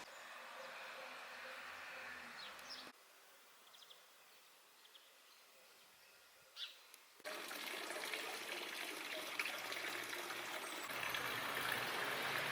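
Outdoor ambience in three abruptly cut segments: a light background with a few short high bird chirps, then from about seven seconds in a louder steady rushing noise.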